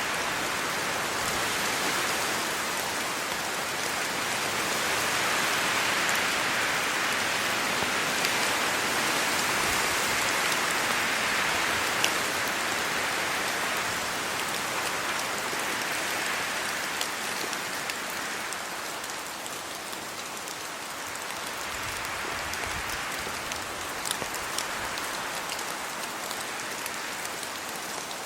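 Steady rain falling on trees, leaves and a road: an even hiss with a few sharper drop ticks, swelling a little partway through and easing slightly later on.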